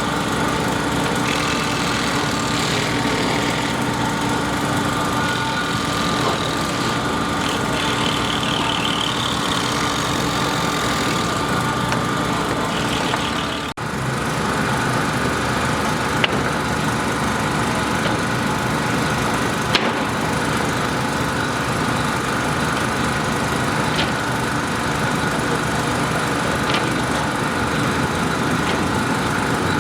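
An engine running steadily, with a brief break about 14 s in and a few sharp clicks later on.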